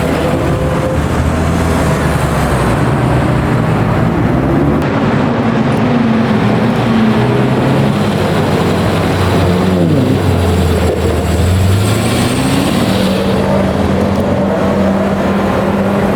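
Several classic car engines running at once, their notes rising and falling as they rev and move, one falling in pitch about ten seconds in.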